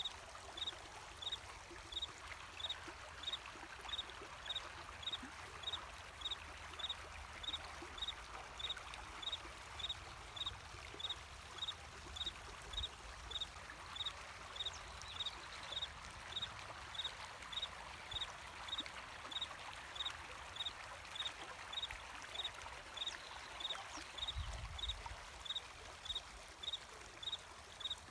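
Running water trickling steadily, with a cricket chirping evenly and high-pitched, a little under two chirps a second. A brief low rumble comes in near the end.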